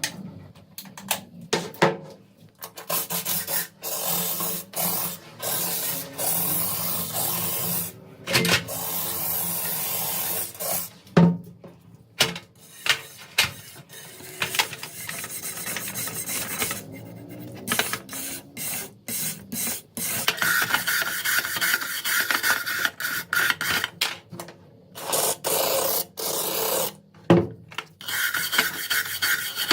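Abrasive scraping of rusty steel parts during rust removal, in runs of a few seconds broken by short pauses and knocks. In the second half a thin steady tone rides on the scraping.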